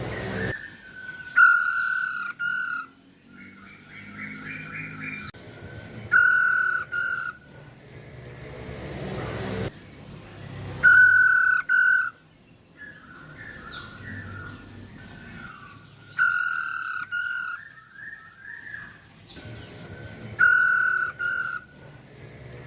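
Female masked laughingthrush calling: a loud, harsh two-part call repeated five times, about every four to five seconds, with softer short chirping notes in between.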